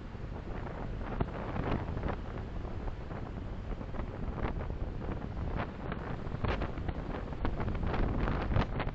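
Car driving on the road: a steady rumble of road and wind noise, with irregular gusts of wind buffeting the microphone that grow stronger in the second half.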